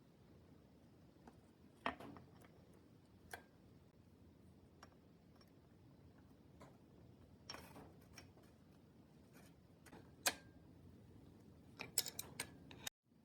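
Sparse light clicks and taps of tools and bottom-bracket parts being handled during reassembly, a few with a short metallic ring, and a quick run of clicks near the end.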